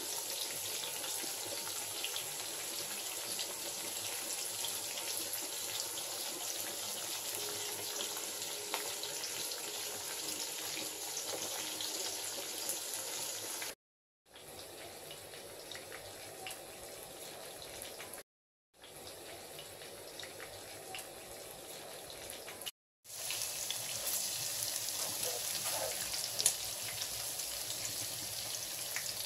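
Pork belly pieces frying in oil in a wok: a steady sizzle with scattered crackling pops. The sound turns quieter for a stretch broken by three short cuts to silence, then the sizzle returns louder near the end as garlic fries in the oil.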